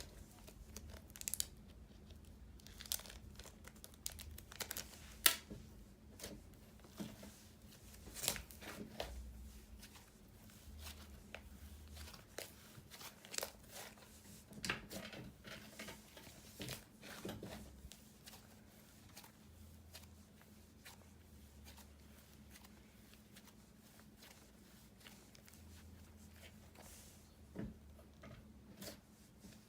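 Slime being stretched and squished by hand, giving faint, irregular sticky crackles and pops, thicker in the first half and sparser later.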